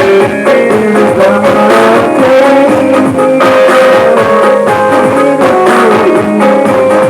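Live band music playing loudly: guitar and drums keeping a steady beat under held melody notes.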